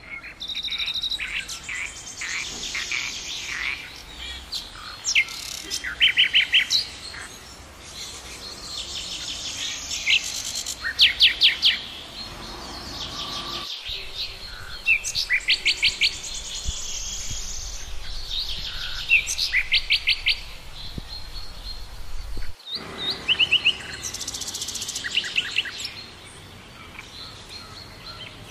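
Several birds chirping and singing, with quick trills of short repeated notes, over a soft outdoor hiss. The sound breaks off abruptly twice and starts again.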